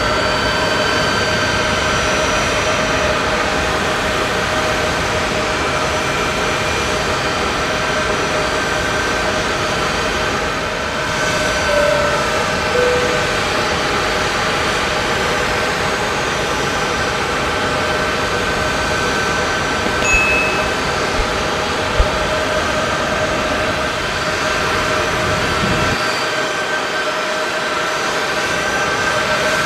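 Turbofan jet engines of a Boeing C-17 Globemaster III running on the ground, a steady rush with several steady whining tones.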